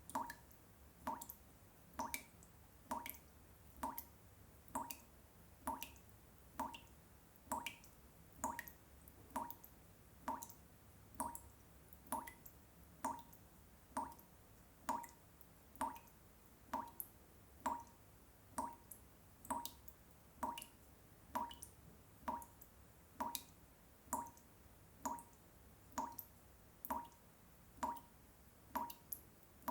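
Water drops falling one at a time in a steady, even rhythm, a little more than one drip a second, each a short plink.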